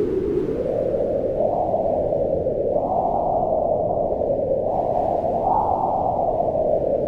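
Wind blowing in slow gusts: a steady low rush that swells and eases, rising in pitch a few times and settling again.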